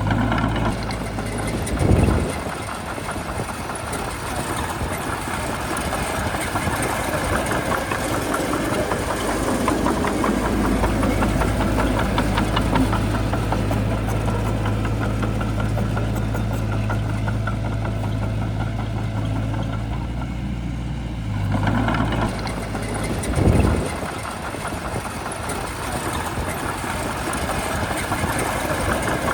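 Shantui bulldozer's diesel engine running steadily under work, its low hum heavier through the middle of the stretch. Two short thuds come about two seconds in and again near the end.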